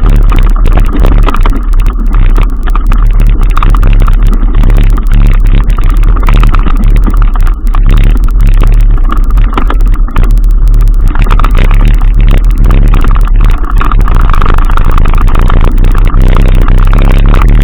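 Loud, steady rumble and wind roar of a ride in motion on the microphone, unbroken throughout.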